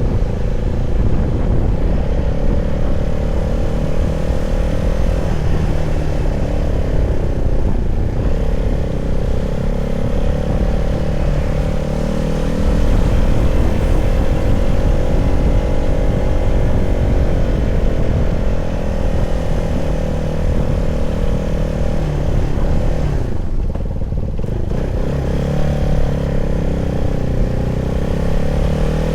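CFMoto 300SR single-cylinder engine running at a fairly steady speed, its pitch wandering only slightly, over a heavy low rumble. About three-quarters of the way through the pitch and level dip briefly before the engine note holds again.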